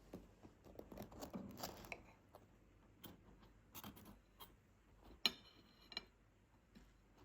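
Faint scattered clicks and taps of small objects being handled, with one sharp clink about five seconds in that rings briefly.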